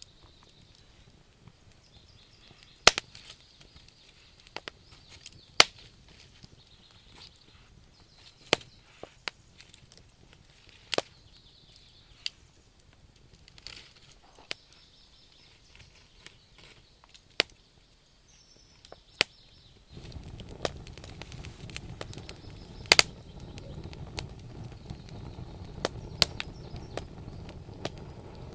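Wood campfire crackling, with sharp, irregular pops and snaps from the burning logs every second or so. About two-thirds of the way through, a steady low rush of fire noise joins underneath the pops.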